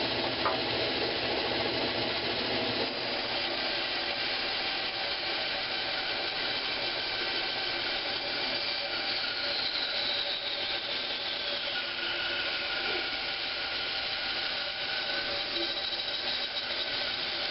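Power saw running steadily while ripping an old pine block into square blanks.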